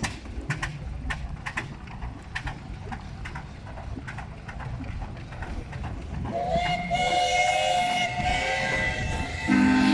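Steam whistles blowing the noon signal. A steady, high whistle starts about six and a half seconds in, and a deeper, louder whistle joins near the end, after a few scattered clicks.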